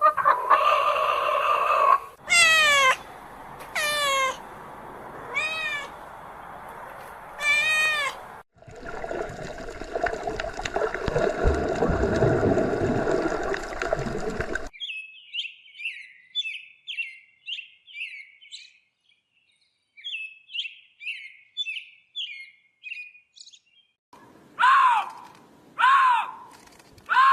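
A run of different animal calls one after another: several falling, pitched cries, then a noisy stretch, then rapid high chirping, then a few short repeated calls near the end.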